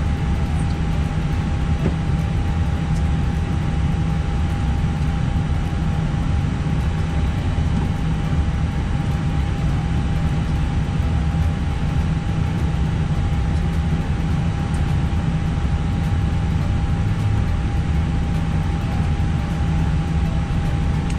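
Steady low rumble inside an Airbus airliner's cockpit as it taxis with its engines running, with a thin steady whine over it.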